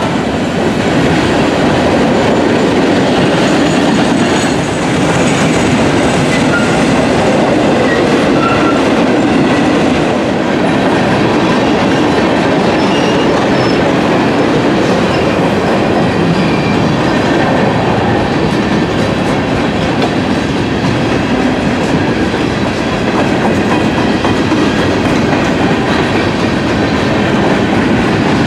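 Freight train cars rolling past at close range: a steady rumble of wheels on rail with rhythmic clickety-clack over the rail joints and faint thin high squeals from the wheels.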